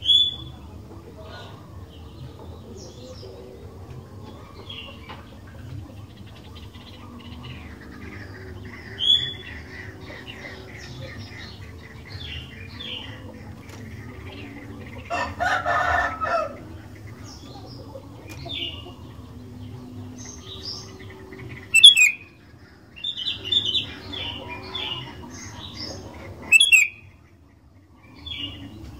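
Sooty-headed bulbuls (kutilang) calling with short, bright chirps scattered through, coming thicker and louder near the end, over a steady low hum. About halfway through there is a louder, lower call lasting a second or so.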